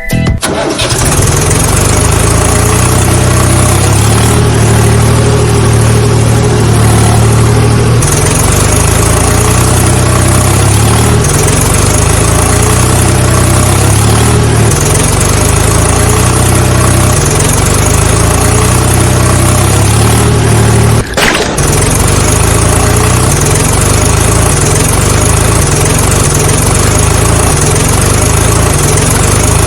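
Tractor engine running steadily and loudly, with a brief break in the sound about two-thirds of the way through.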